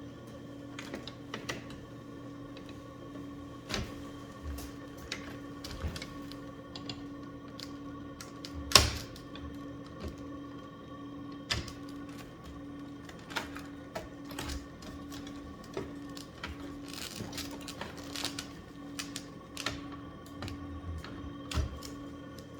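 Irregular light clicks and knocks of hands working on a system air conditioner's parts while replacing its temperature sensor, with one sharper knock about nine seconds in, over a steady hum.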